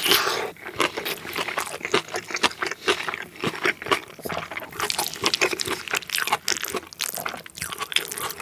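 Close-miked chewing of a mouthful of tuna mayo over rice: dense, wet clicks and smacks, loudest at the very start as the spoonful goes into the mouth.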